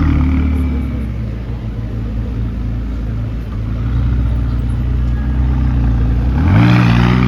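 Car engine running at low revs, then revved briefly near the end, its pitch rising and the sound growing louder and harsher.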